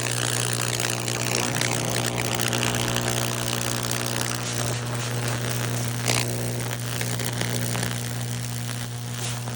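High-voltage transformer humming steadily while current arcs and burns fractal paths across a wet wooden board, with a constant electrical crackle and sizzle and one sharper snap about six seconds in.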